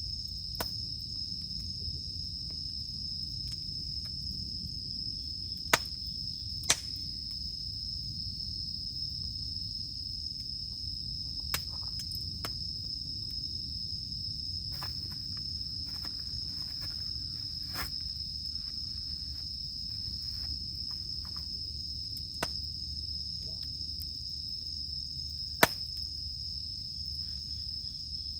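Steady high drone of cicadas over a campfire burning with a low rumble, the wood giving occasional sharp crackles and pops.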